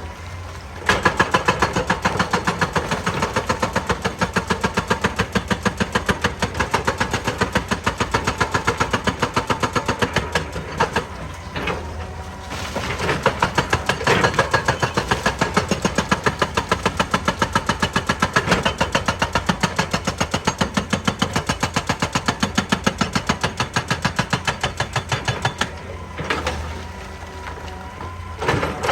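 Excavator-mounted hydraulic rock breaker hammering rock in rapid, evenly spaced blows over the steady drone of the diesel engine, stopping briefly around ten seconds in and again near the end.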